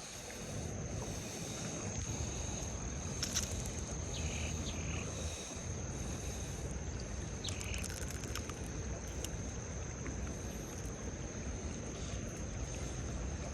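Riverside outdoor ambience: a steady high-pitched insect drone over a low, even rumble of wind and background noise, with a few brief faint chirps.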